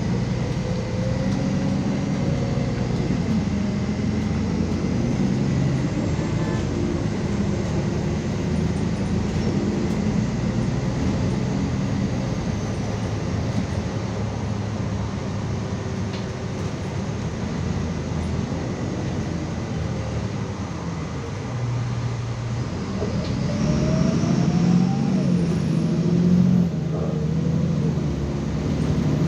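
MAZ 216.066 articulated city bus running on the move, heard from on board: a steady engine and drivetrain hum with a faint high whine. The engine note rises and grows louder about 23 seconds in as the bus accelerates.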